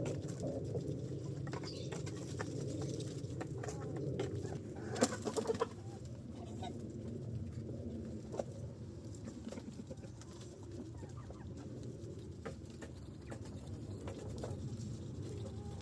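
Mixed flock of geese, ducks and chickens feeding, with a steady murmur of soft clucking and calls, scattered short clicks, and a short run of louder calls about five seconds in.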